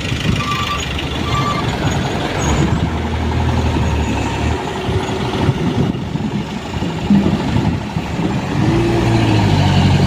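Diesel engine of a small dump truck running, its low hum rising and falling, with two short high beeps about a second in.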